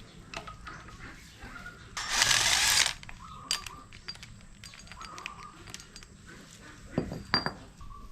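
Hand tools working on an engine: scattered metal clicks and clinks, with a loud rush of noise lasting about a second about two seconds in, and a couple of sharp knocks near the end.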